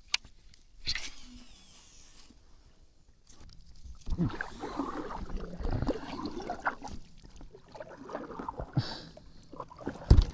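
Fishing-tackle and kayak handling noises during a cast and retrieve: a sharp click at the start and a brief swish about a second in, then several seconds of knocks and rustling from about four seconds on.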